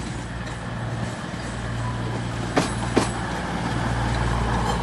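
CrossCountry class 221 Voyager diesel train approaching, its underfloor diesel engines droning low and steadily growing louder. About two and a half seconds in, two sharp clacks in quick succession as its wheels pass over track joints.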